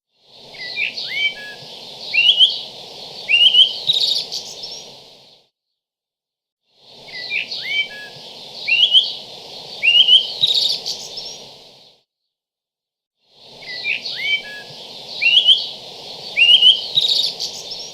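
A short recording of bird chirps and song over a low background hiss, played three times in a row with short silent gaps between: a looped birdsong sound effect.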